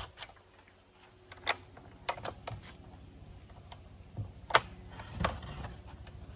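A handful of sharp, irregular clicks and snaps, the loudest about four and a half seconds in, over a faint low background hum.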